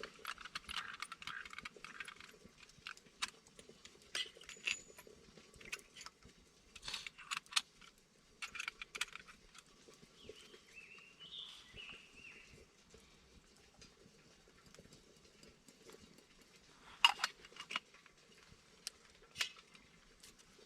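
Irregular sharp clicks, clinks and knocks of small hard objects being handled, the loudest a cluster about seventeen seconds in, with a short squeaky wavering tone about halfway through.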